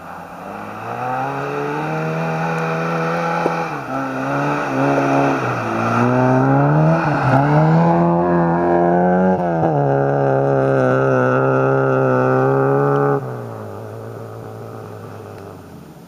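Lada 1200 (VAZ-2101) rally car's four-cylinder engine revving hard as it slides on snow, its pitch rising and falling with each throttle blip and gear change. It grows loudest as the car passes close, then drops off suddenly about thirteen seconds in.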